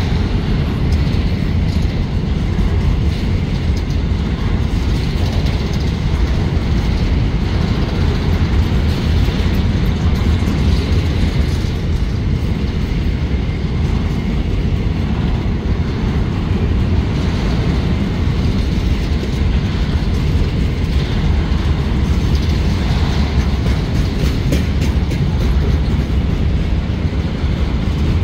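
Loaded covered hopper wagons of a freight train rolling past close by, with the loud, steady rumble of their wheels on the rails.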